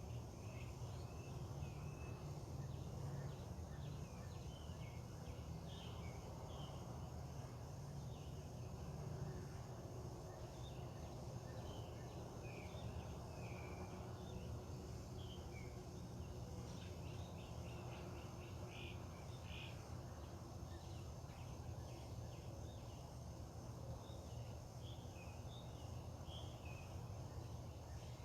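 Dawn chorus of songbirds: many short chirps and calls scattered throughout, over a steady low hum and a faint steady high buzz.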